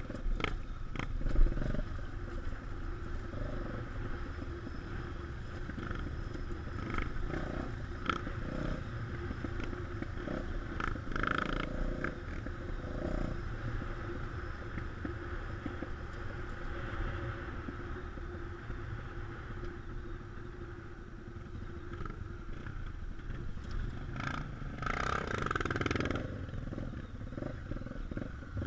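Trail motorcycle engine running steadily while riding, under a heavy low rumble, with a few short bursts of clatter.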